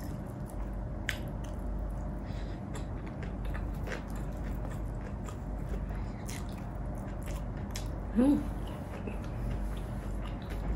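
Close-miked chewing and biting of food, with many small wet mouth clicks and smacks. A brief rising vocal sound comes about eight seconds in.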